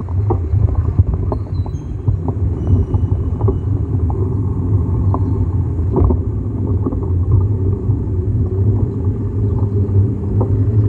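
Steady low rumble with many small sharp clicks and knocks scattered through it, typical of wind on the microphone and the bicycle rattling during a ride.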